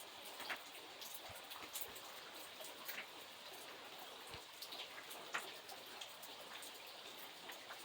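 Rain falling steadily: an even hiss with many individual drops striking a surface at irregular moments.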